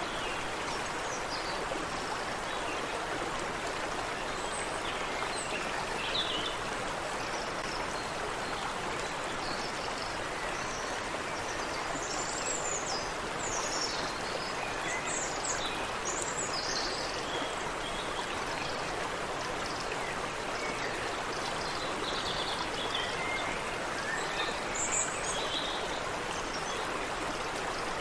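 Creek water running steadily over rocks, with birds chirping in short, high calls on and off throughout.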